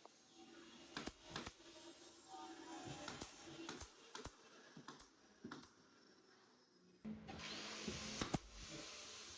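Scattered light knocks and clicks, a dozen or so spread irregularly, with a rise in background hiss about seven seconds in.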